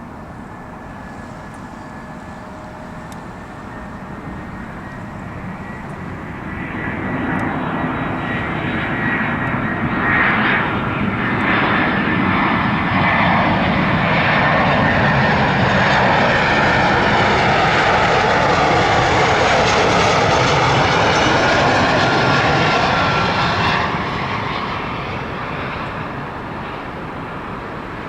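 Jet airliner passing close: the engine noise swells over several seconds, stays loud for about a quarter of a minute with tones sliding down in pitch, then drops off fairly quickly and fades.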